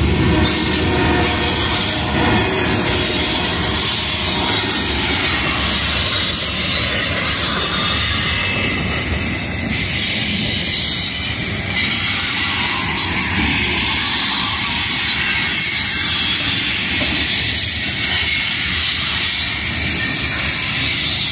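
Freight train covered hopper cars rolling past close by: a steady, loud rumble and clatter of steel wheels on the rails, with thin high-pitched wheel squeal.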